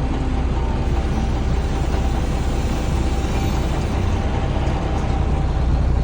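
Dump truck's diesel engine running steadily, a low rumble with a faint steady whine over it.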